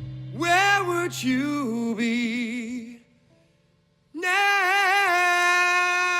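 Unaccompanied singing with strong vibrato as the band stops playing: a couple of short sung phrases, a pause of about a second, then one long held note.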